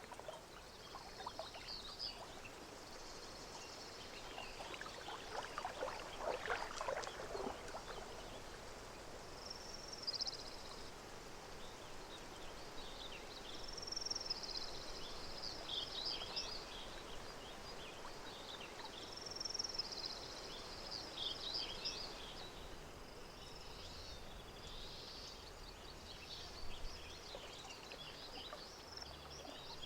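Lakeside nature ambience: gentle water over a steady outdoor hush, with birds singing short high phrases that recur every few seconds.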